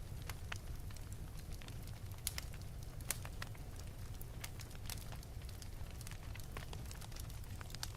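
Wood fire burning in an open fireplace, crackling with irregular sharp pops and snaps over a steady low rumble of the flames.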